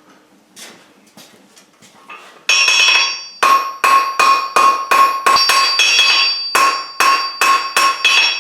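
Hammer blows on an anvil, tapering hot mild steel bar. They start about two and a half seconds in, after a few faint clinks, and come at roughly two or three a second. Each blow leaves a bright metallic ring.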